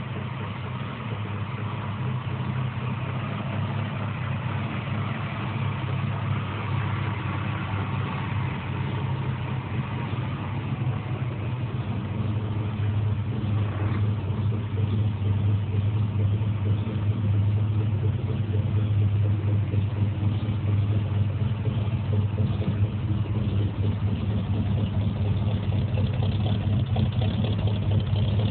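1957 Chevrolet Bel Air's engine idling steadily, gradually getting louder.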